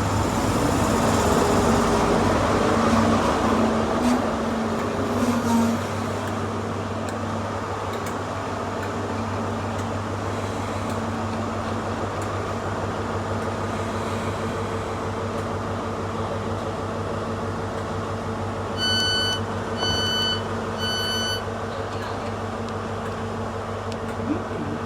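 Steady hum of a passenger train standing at a platform, its engine and onboard equipment idling. About three-quarters of the way through come three short electronic beeps about a second apart: the door-closing warning.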